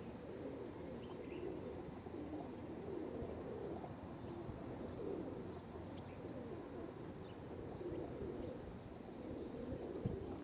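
A flock of feral pigeons (rock doves) cooing, many low coos overlapping without a break, over a faint steady high hiss.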